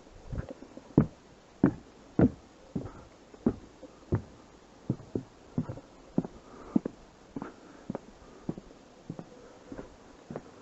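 Footsteps at a steady walking pace, about three steps every two seconds, each landing with a hollow knock.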